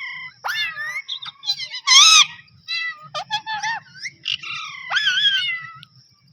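Pet parrot calling in a quick run of short, pitch-bending squawks and chatters, the loudest about two seconds in.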